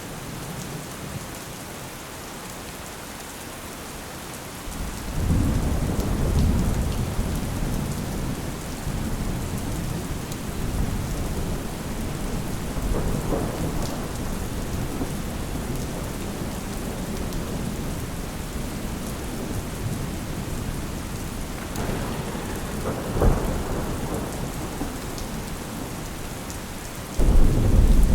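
Steady rain falling, with thunder rolling through it. A deep rumble builds about five seconds in and fades slowly, fainter rolls follow, and a sudden louder burst of thunder breaks near the end.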